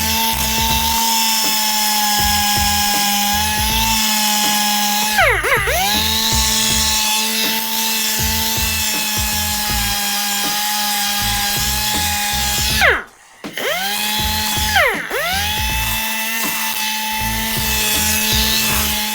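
Rotary sander running at a steady high whine while smoothing the cut edge of an engine's cam gear cover. It briefly winds down and spins back up about five seconds in, then stops near thirteen seconds and spins up again a second or two later.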